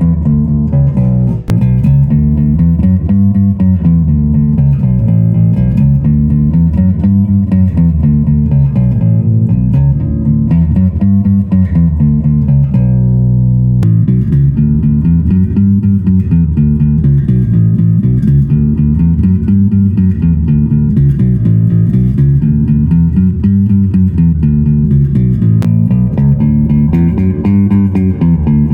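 Electric bass guitar played through an amp: a repeating line that climbs and falls about every two seconds, with one long held note about halfway through.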